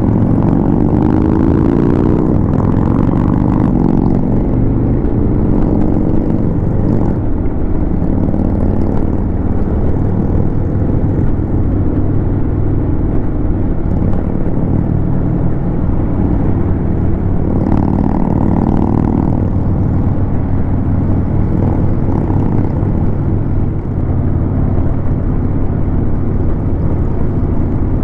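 Harley-Davidson Road King's V-twin engine running under way, with steady wind and road noise. Its pitch rises over the first few seconds as the bike accelerates, and there is a brief louder surge about two-thirds of the way through.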